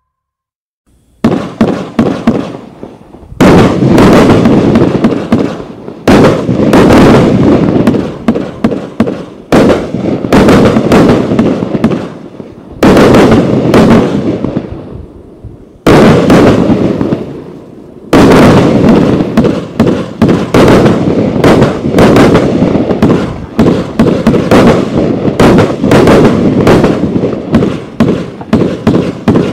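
A 98-shot, 30 mm calibre firework battery (cake) firing, starting about a second in. It sounds as dense volleys of shots and bursting pops that come in waves every few seconds, then run almost without a break in the second half.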